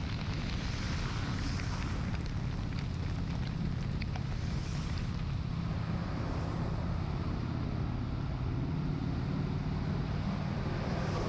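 Honda Shadow 750 V-twin motorcycle engine running steadily at road speed, under wind noise on the microphone.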